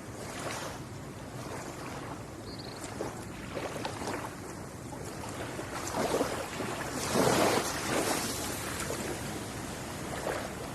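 Ocean waves washing onto a shore, a steady rush that swells with each wave. The biggest surge comes about seven to eight seconds in.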